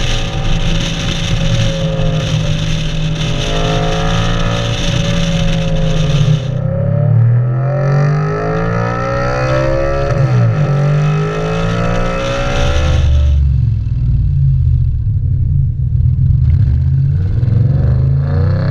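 Car engines running through aftermarket exhausts, in three clips cut together: a steady engine note, then revving with the pitch falling and rising, then a low rumble near idle.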